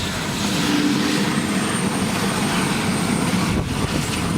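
Helicopter running close by: steady rotor and engine noise, with a high, steady whine joining about a second in.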